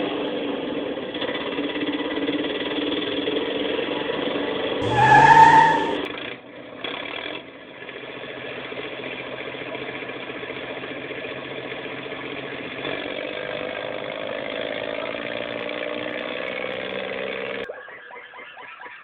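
A vehicle engine running steadily, with a brief loud rising sound about five seconds in. The sound drops out for a moment near the end.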